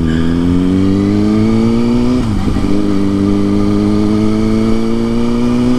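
Kawasaki ZX-6R's inline-four engine pulling gently under acceleration, its pitch rising; an upshift about two seconds in drops the revs, then they climb again.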